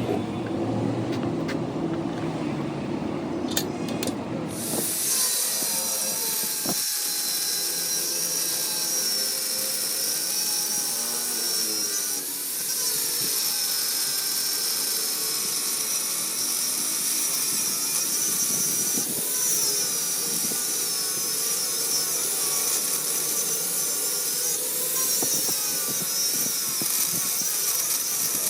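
Metalworking power tool running: a low rumble for about the first five seconds, then a steady high-pitched cutting noise with a wavering whine for the rest.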